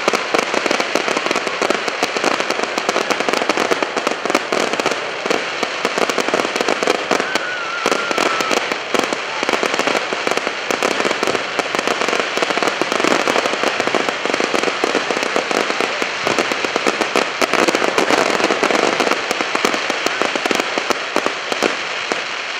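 Fireworks crackling: a loud, dense, continuous run of rapid pops and snaps.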